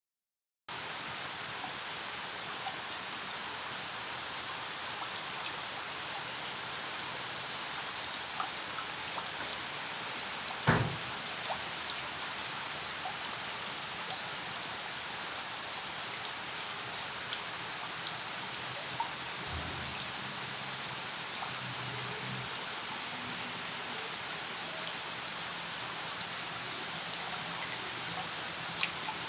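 Heavy rain falling steadily, with scattered drips ticking on surfaces. There is one sharp knock a little over a third of the way through.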